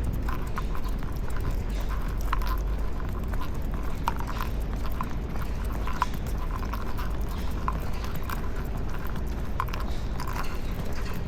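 Irregular light clicking and tapping of footsteps and dogs' claws on pavement during a walk, over a steady low rumble.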